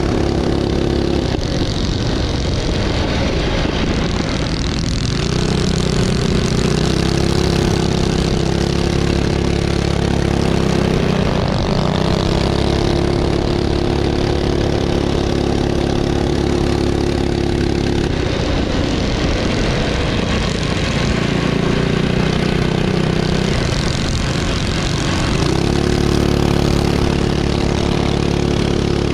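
Minibike engines running on a circle track, the engine note dropping and climbing again every few seconds as the bikes slow and accelerate around the track.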